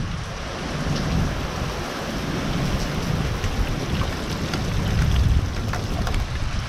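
Heavy thunderstorm rain pouring down, a dense steady hiss with the patter of drops striking surfaces, over a low rumble from gusting wind that swells and fades.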